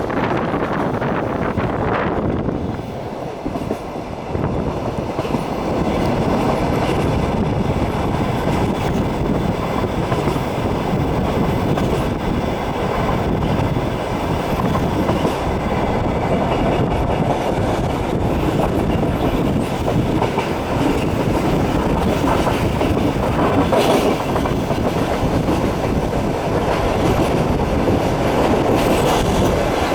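Passenger train running along the track, a steady rumble with wheel clatter over the rails, heard from a carriage window.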